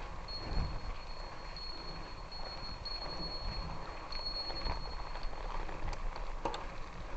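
Bicycle rolling along a gravel track: steady tyre and wind noise with light ticking and a couple of clicks near the end, under a thin, wavering high whine.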